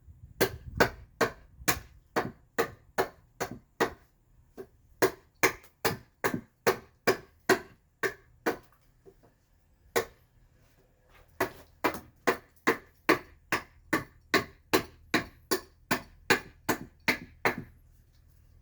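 Hand carving tool chopping into alder wood, hollowing out the back of a mask: a steady run of sharp strikes, about three a second, with a short pause around the middle.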